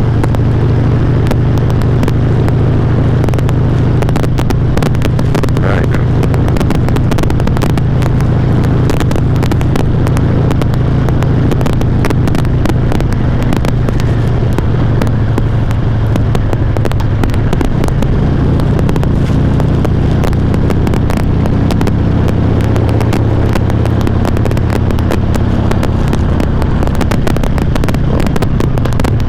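Harley-Davidson V-twin engine running steadily on the move, picked up by a helmet chin microphone, with a constant dense crackle over it: the recording distorting and clipping.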